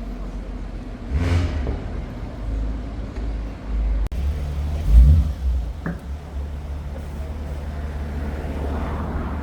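Car engines in street traffic: one vehicle swells past about a second in, a louder low engine note about five seconds in, then a steady low engine hum.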